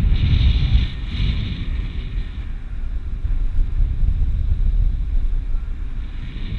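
Wind buffeting the microphone: a loud, steady low rumble, with a brighter hiss over it in the first second or so that then fades.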